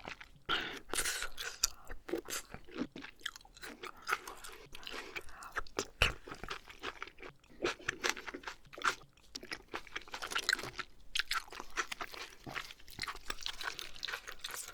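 A person chewing oysters close to the microphone, with many short, irregular mouth clicks and squelches.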